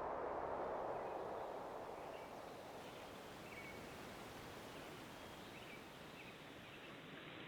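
Faint outdoor natural ambience: a steady low hiss of background noise with a few faint bird chirps in the first half. A music tail fades out about a second in.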